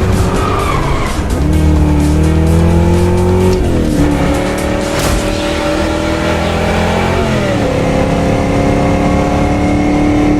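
Car engine accelerating hard through the gears: its pitch climbs steadily and drops at a gear change about four seconds in and again about seven and a half seconds in, with some tyre squeal, under music.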